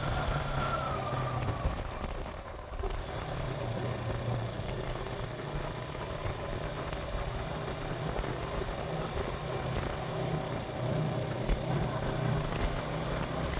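Suzuki GN125's single-cylinder four-stroke engine running steadily while riding, under an even hiss. The level dips briefly about two and a half seconds in.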